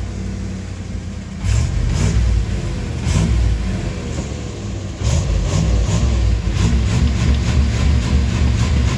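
Gasoline engine of a first-generation Dodge Ram pickup running and being revved as the truck is driven slowly. The engine note rises and falls, with repeated short knocks and rattles over it.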